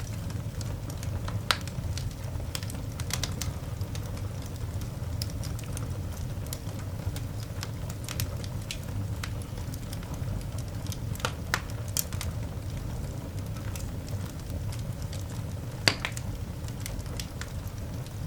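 Coal fire in a cast iron dog grate, crackling and popping in irregular sharp snaps over a steady low rumble. Two louder pops stand out, one near the start and one near the end.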